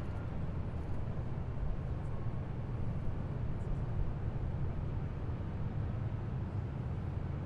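Heavy military vehicles' engines running steadily as they drive past, a deep, even low-pitched sound with no rise or fall.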